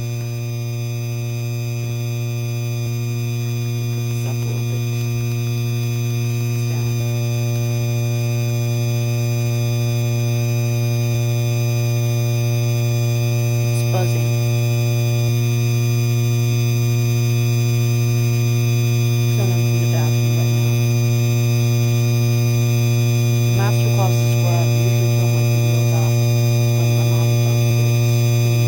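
Hampton Bay Landmark III Plus ceiling fan motor running with a steady electrical buzz: a strong low hum with many overtones, growing gradually louder. It is the buzzing noise that makes this a noisy Landmark.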